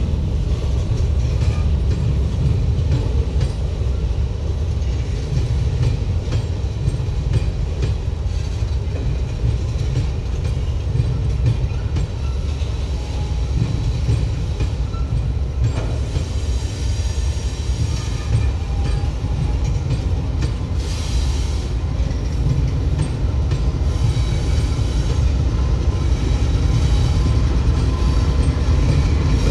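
Freight train rolling past: a steady, loud low rumble of wheels on track, with faint high-pitched squealing in the second half.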